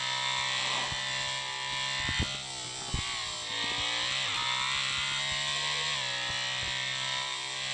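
Motorcycle engine running steadily with a buzzing drone. About two seconds in, its pitch dips and comes back up, with a couple of sharp knocks.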